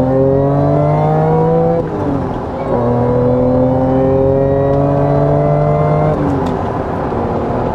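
Supercharged Acura NSX V6 engine accelerating, its pitch rising steadily, with an upshift about two seconds in and another about six seconds in. It pulls smoothly with no misfire, which the owner takes as the misfire fixed.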